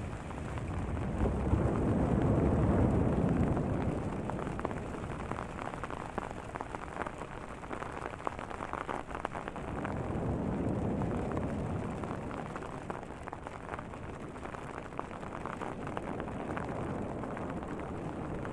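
Light hail and rain falling on a tent, a steady hiss with fine ticks, under deep ocean waves that swell up louder about two seconds in and again about ten seconds in.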